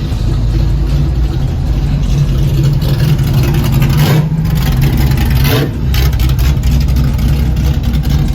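Loud car engine rumbling steadily at idle, with two short sharper bursts about four and five and a half seconds in.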